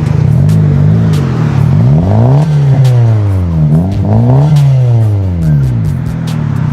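Car engine revving up and dropping back about three times, the second and third revs the highest, then settling to a steady run.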